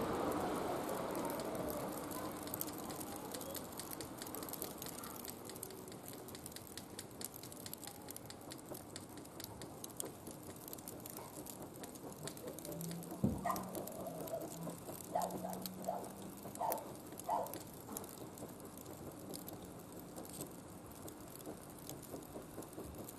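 Wood fire burning in a barbecue grill, crackling with many small pops and ticks, with a sharper knock about halfway through and a few short pitched sounds just after it.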